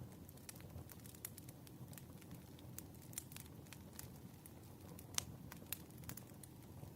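Wood fire crackling faintly, with a steady low rumble and many scattered sharp pops, two louder pops coming a little after five seconds in.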